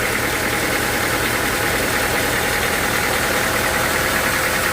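Sawmill machinery running steadily: a constant mechanical drone with a steady hiss over it.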